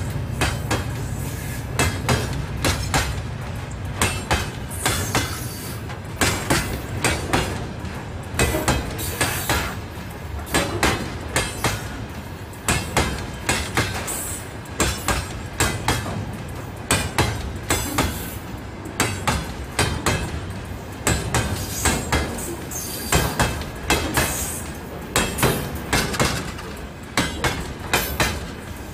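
Freight wagons of a long train rolling past close by, their wheels clattering over the rail joints in clusters of sharp knocks every couple of seconds over a steady rumble.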